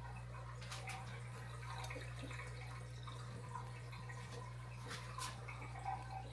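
Water dripping and trickling in an aquarium, with a few sharp little splashes about a second in and again near the end, over a steady low hum from the tank equipment.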